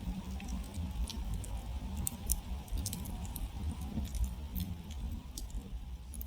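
Campfire burned down to glowing embers, crackling: irregular sharp pops and snaps of burning wood, thickest about two seconds in, over a low steady rumble.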